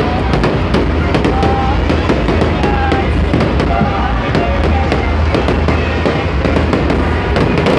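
Fireworks display going off continuously, with many rapid sharp cracks over a steady low booming rumble, with music playing.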